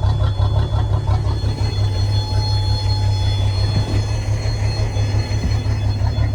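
1988 Sea Ray boat engine running steadily, fed from a fuel can, with a fast, even low rumble and a faint steady high-pitched buzz over it.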